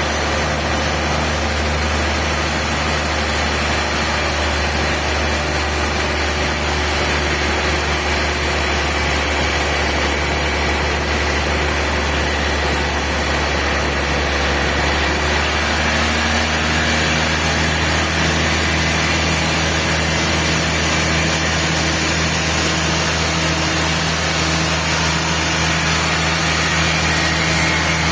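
Sawmill machinery running steadily with a constant low hum and engine-like drone; its tone shifts a little about halfway through.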